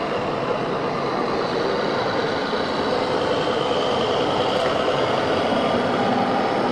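Radio-controlled model trucks running on a course, their sound modules playing steady truck engine sounds over the constant noise of a busy exhibition hall.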